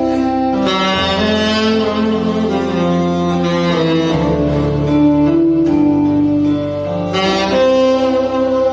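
Saxophone playing a slow melody with long held notes over a recorded backing track with bass and strings.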